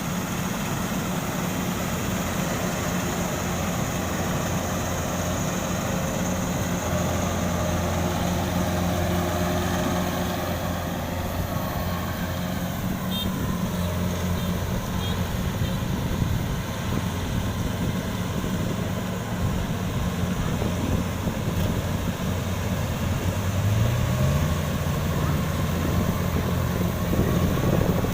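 Kubota DC93 combine harvester's engine running steadily with its machinery working in a muddy rice paddy. Near the end the engine note rises and holds higher.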